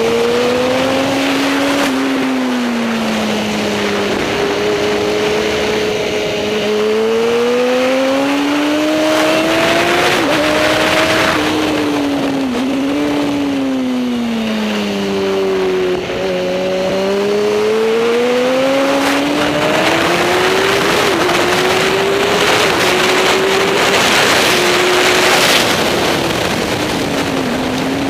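Racing superbike engine running hard, its pitch climbing and dropping again and again as the bike accelerates and slows through corners, with surges of rushing noise twice.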